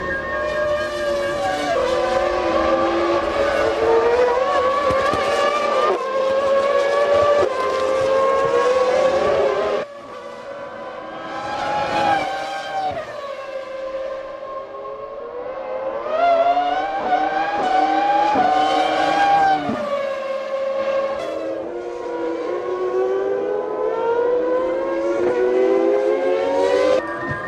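A 1998 Formula One car's V10 engine at racing speed, climbing in pitch gear after gear. About ten seconds in it lifts sharply and the pitch falls through downshifts. It pulls up through the gears again, lifts and downshifts near twenty seconds, then accelerates once more.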